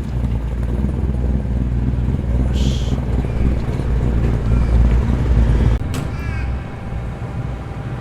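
A muscle car's engine rumbling at low speed as it rolls by. The deep rumble drops away a little under six seconds in.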